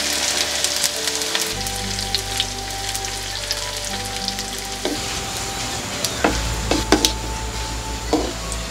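Sliced ingredients sizzling and crackling in hot oil in a pan, stirred with a wooden spoon. A few sharp knocks of the spoon against the pan come near the end.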